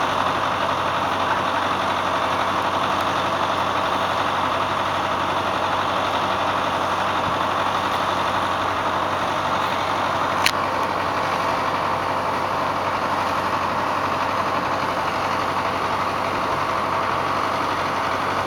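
Tractor diesel engine idling steadily during a cold-weather warm-up, with one sharp click about ten seconds in.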